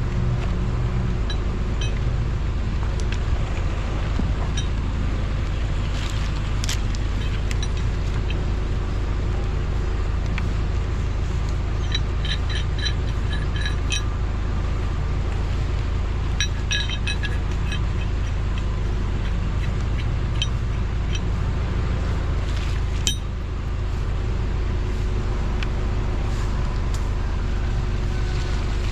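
Strong wind buffeting the microphone as a steady low rumble, with a few clusters of light metallic clinks about halfway through.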